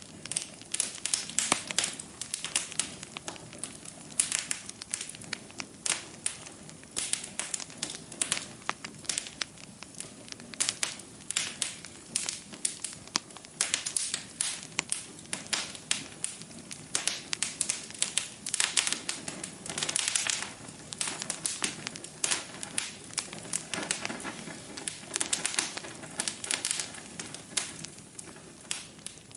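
Wood fire burning in a fireplace: a steady low hiss with many sharp pops and crackles at irregular moments.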